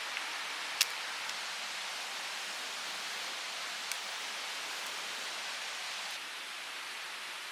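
Steady rushing hiss of a flowing mountain stream, with a few sharp ticks, the clearest about a second in. The level drops slightly about six seconds in.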